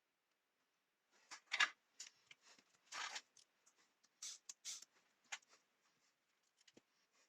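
Irregular clicks, taps and short scrapes of small hard parts being handled, starting about a second in, with the sharpest click soon after.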